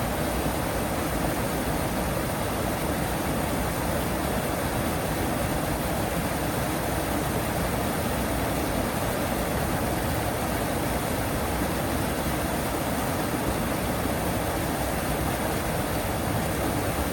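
Steady, even rush of running water from the duck pond, with no duck calls standing out.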